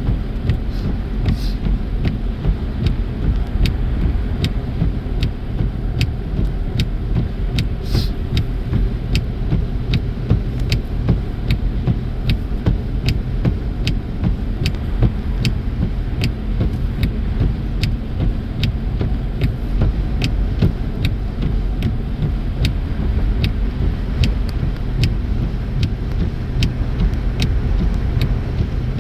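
Car driving at highway speed on a snowy road: a steady low rumble of tyre and engine noise, heard from inside the cabin, with many short faint clicks scattered through it.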